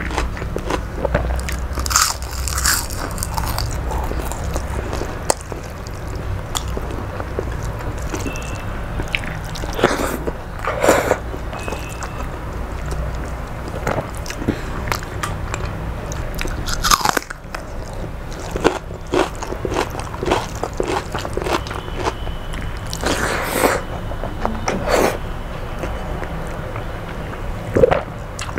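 Close-miked eating by hand: irregular crunchy chewing and bites, with fingers mixing rice on a steel plate.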